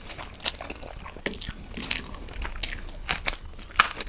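Close-miked chewing of a mouthful of food, with scattered short wet clicks and smacks of the mouth.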